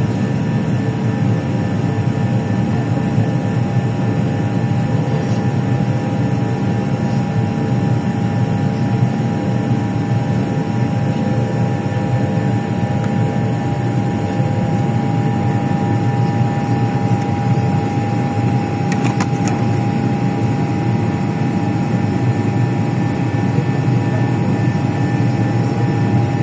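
Steady drone of an aircraft in flight: an even, low rushing noise with a thin, steady whine above it, unchanging throughout.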